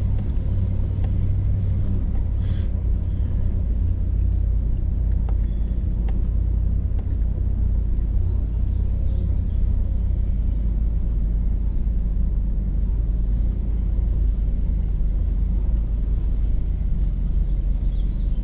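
Hummer H2's V8 engine and drivetrain running at a steady low rumble, heard from inside the cab, with a faint knock about two and a half seconds in.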